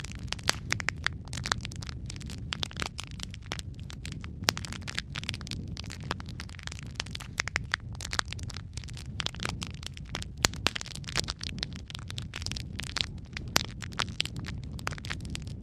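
Wood fire of burning logs crackling, with frequent sharp pops and snaps over a steady low rumble of the flames.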